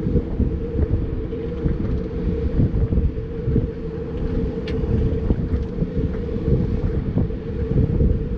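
Turbocharged 1999 Mazda Miata's four-cylinder engine running steadily under load, with heavy road and wind rumble, heard from inside the car.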